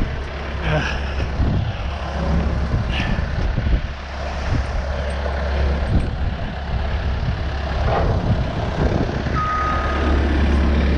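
A heavy vehicle's engine runs with a steady low hum under broad mechanical noise and a few knocks. About nine seconds in comes a short, high beep of the kind a reversing alarm gives.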